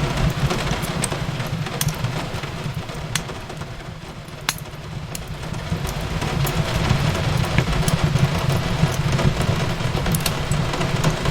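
Wood fire crackling, with scattered sharp pops (a louder one about four and a half seconds in), over a steady low rumble and the hiss of rain. The whole bed dips a little in the middle and builds back up.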